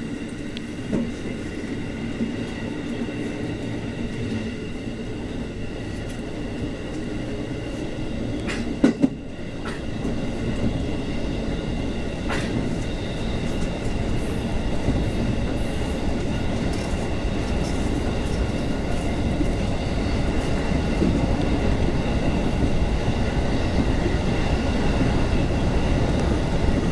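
Running noise inside an electric train in motion: a steady rumble of wheels on rail that grows gradually louder. A couple of sharp knocks come about nine seconds in.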